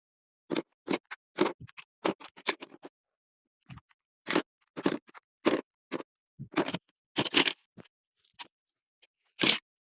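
A run of short, irregular scraping strokes, about twenty in all, with a brief pause about three seconds in.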